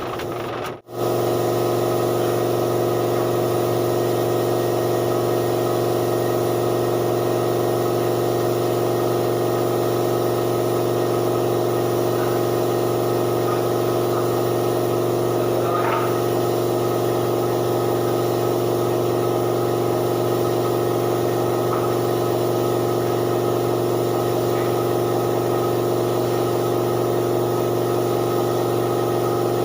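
Steady motor hum that holds an even pitch throughout, typical of an air compressor running for spray painting. A brief dropout comes about a second in.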